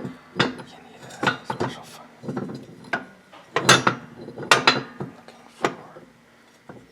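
Metal tools and parts clanking and clinking against each other during work on a VW beam's link bushings: a string of sharp, uneven knocks, loudest in a cluster about halfway through.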